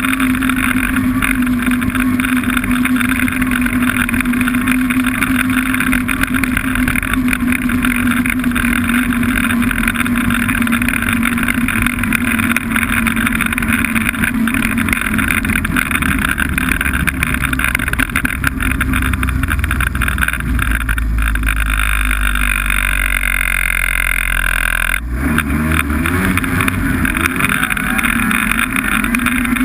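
Snowmobile engine running under way with a steady note; in the second half the note sinks lower, cuts out briefly about 25 seconds in, then climbs again as it picks up speed.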